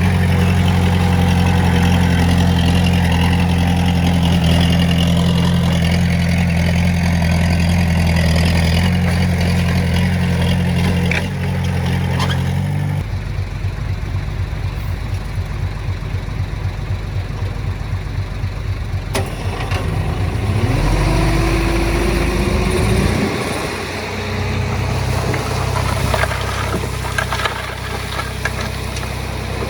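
Diesel engine of heavy earthmoving machinery running. It drops to a lower, pulsing note about thirteen seconds in, revs up briefly just after twenty seconds, then settles again.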